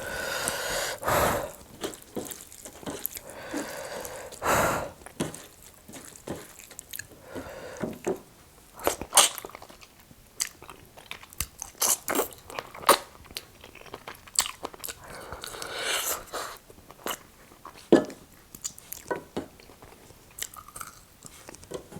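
Close-miked eating: chewing and biting with crunchy bites and many sharp mouth clicks, and a few longer, louder noisy swells.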